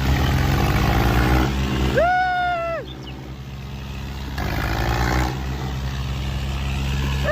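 Diesel tractor engines running hard under heavy load in a tractor tug-of-war. The engine note drops about three seconds in and then builds again. A short, loud, high-pitched call rises and falls about two seconds in and again near the end.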